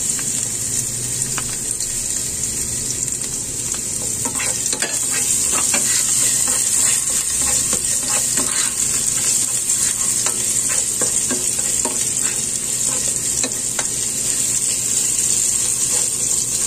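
Minced garlic and ginger sizzling in hot oil in a pot, with the clicks and scrapes of a spatula stirring them from about four seconds in.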